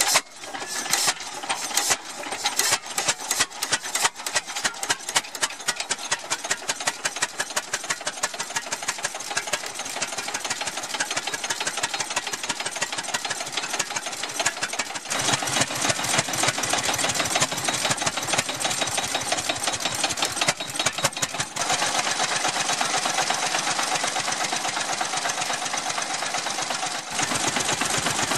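Antique tractor engine running with a rapid, even beat of firing pulses. It starts out uneven with separate loud strikes for the first few seconds, then steadies, and its sound shifts in steps about halfway through and again near the end.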